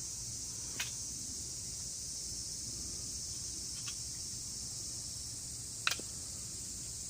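Steady high-pitched chorus of crickets or other night insects, broken by three sharp snaps about a second in, near four seconds and near six seconds, the last the loudest.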